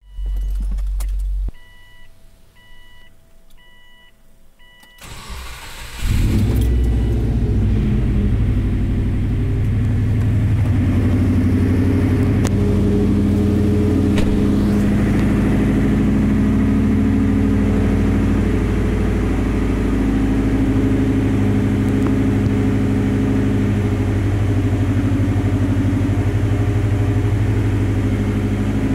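A warning chime beeps about twice a second. Then, around six seconds in, the turbocharged flat-four of an STi-swapped 2004 Subaru Forester XT starts and settles into a loud, steady idle. The engine is heard through an exhaust leak, from a cracked catalytic converter and a rear exhaust section with no hangers.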